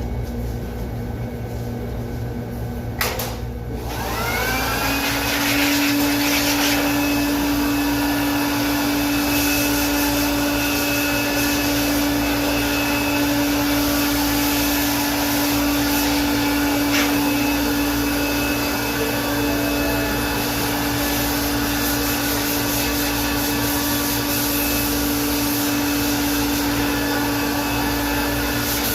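Electric air blower switched on with a click about three seconds in; its motor whines up to speed, then runs steadily with a constant hum.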